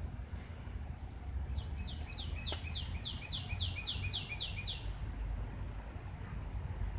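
A bird singing a quick run of about a dozen high notes, each sliding downward, lasting about three seconds and starting a second and a half in, over a low background rumble.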